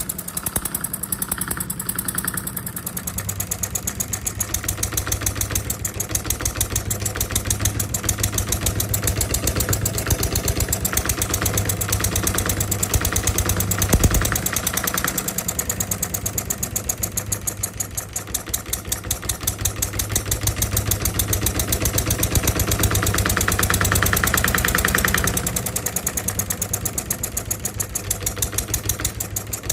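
A small Stirlingkit D16 model diesel engine running steadily with a fast, even firing beat. There is a single sharp knock about fourteen seconds in.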